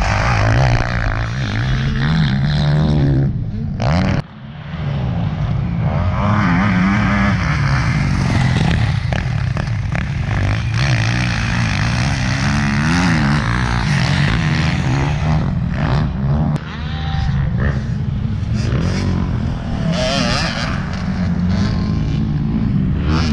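Dirt bike engine revving up and down as it is ridden, its pitch repeatedly rising and falling, with a brief break about four seconds in.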